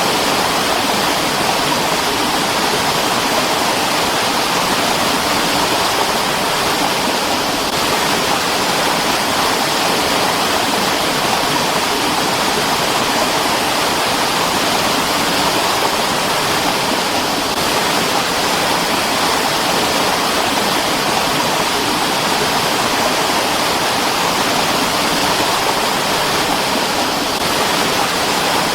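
Mountain stream water flowing in a steady, unbroken rush.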